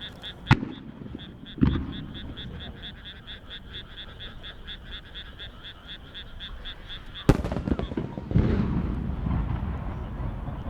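Aerial firework shells bursting: sharp bangs about half a second and a second and a half in, then a louder bang near seven seconds followed by a long rolling boom. Between the bursts, frogs keep up a rapid, even pulsing call of about five pulses a second.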